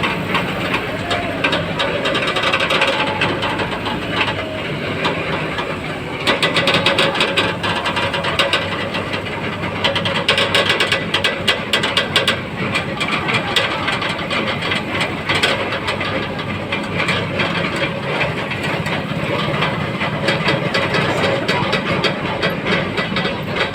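A heavy diesel vehicle's engine running steadily, with a fast clattering of rattles from about six seconds in that fades back after about ten seconds.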